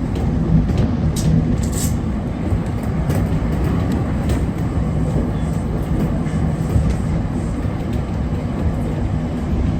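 JR Kyushu 811 series electric train running along the line, heard from inside at the front: a steady rumble of wheels and running gear, with a couple of brief high-pitched sounds between one and two seconds in.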